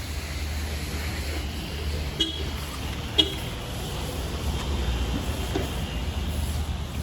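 A vehicle horn beeps briefly twice, about two and three seconds in, over a steady low rumble.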